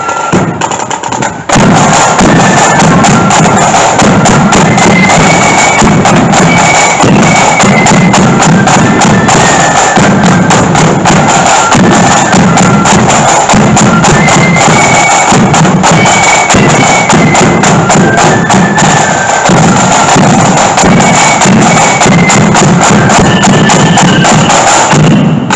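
Marching flute band playing a tune: flutes carry a high melody over snare-drum rolls and a bass drum. It gets suddenly much louder about a second and a half in and fades away right at the end.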